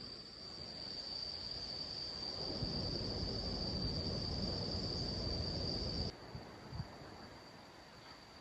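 Insects trilling in one steady, high, unbroken note. Underneath is a low rumbling noise that grows louder and then cuts off suddenly about six seconds in, and the trill turns quieter at the same moment.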